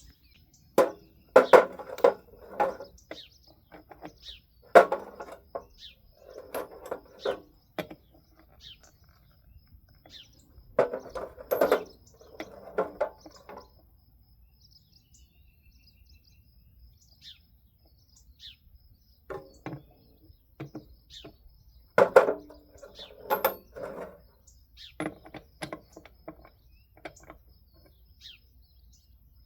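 Knocks and clatter come in bursts every few seconds, with gaps of near quiet between them, while birds chirp in the background.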